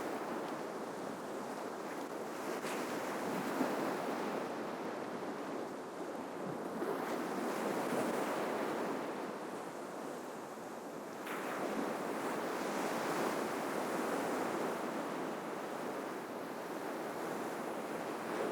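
Ocean waves breaking and washing on the shore, a steady rushing that swells and eases every few seconds, with a sharp splash about eleven seconds in.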